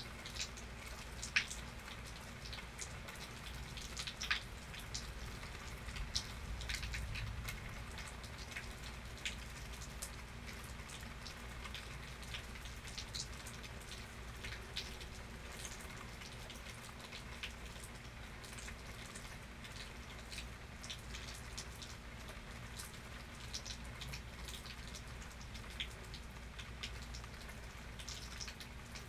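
Thunderstorm rain falling steadily, with individual drops ticking sharply and irregularly on a nearby surface.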